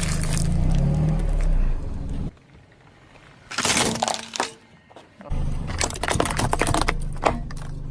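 A car engine rumbling as the car rolls over brittle objects, with sharp cracking and crunching as they break. A quiet gap about halfway through is broken by one loud crunch, then the rumble and a dense run of cracks come back.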